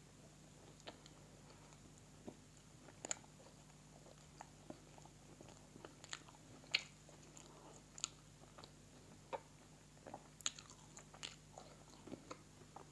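Close-up mouth sounds of a man chewing a bite of pizza: irregular soft smacks and clicks, the loudest about halfway through.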